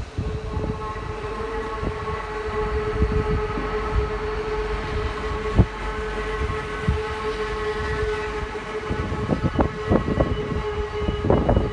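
GWR Hitachi bi-mode intercity train (Class 800/802 family) moving slowly past, its running gear giving a steady pitched hum over a low rumble. Scattered clunks of wheels over rail joints, one sharp one about halfway through and a cluster near the end as the hum stops.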